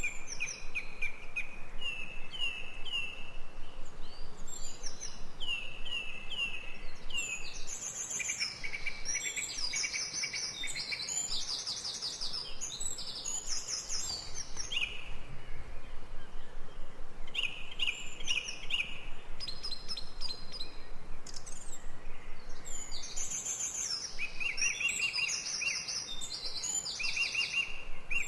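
Forest birdsong: several birds calling at once, with runs of quick repeated chirps and trills, over a faint steady background hiss.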